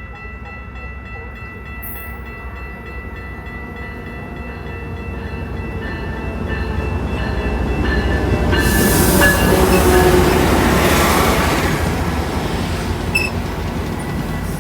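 A train passing on the rails, its rumble and wheel noise growing louder to a peak about two-thirds of the way through, then easing off. A few steady tones carry on underneath.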